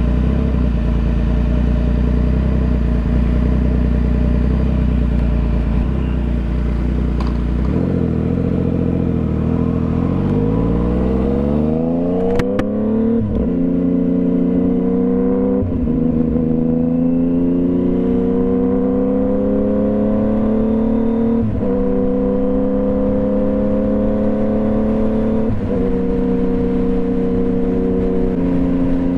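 Yamaha FZ-09's three-cylinder engine heard from the rider's helmet. It runs steadily at low revs, then about eight seconds in the revs start climbing as the bike pulls away. A series of upshifts follows, each dropping the pitch before it climbs again.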